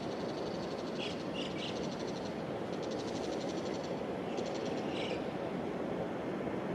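Low, steady rumble of a distant freight train hauled by a JR Freight EF210 electric locomotive approaching, slowly growing louder. Over it, birds chirp a few times about a second in and again about five seconds in, against a fast, high chirring trill.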